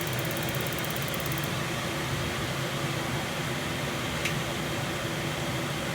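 Kitchen exhaust fan running with a noisy, steady whir and a low hum.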